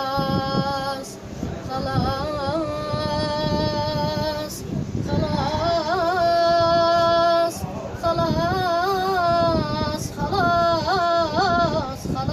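A child singing an Iraqi sad song in a high voice, drawing out long held notes with wavering, ornamented runs between breaths.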